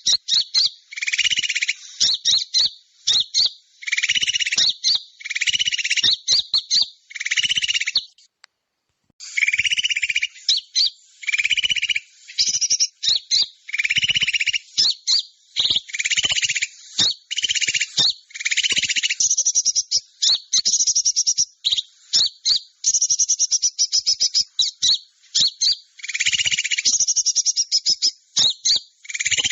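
Bird-trapping lure recording of small songbirds: fast, high chirping trills in repeated bursts, with a lower rapid chatter in many of them, broken by a silence of about a second near eight seconds in.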